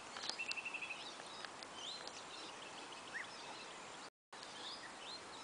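Birds calling faintly in the background: a quick trill of repeated notes near the start, then several short rising chirps. The sound cuts out completely for a moment about four seconds in.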